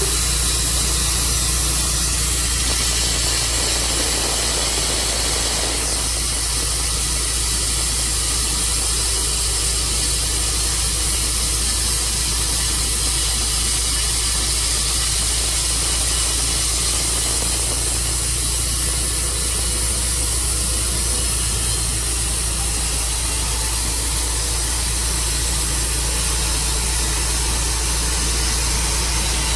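Tru Cut portable bandsaw sawmill running steadily, its engine humming under a loud, even hiss from the saw.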